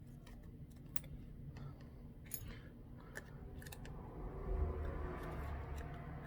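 Faint scattered small clicks and taps of phone parts and cables being handled during repair, with a low rubbing rumble of handling swelling between about four and six seconds in.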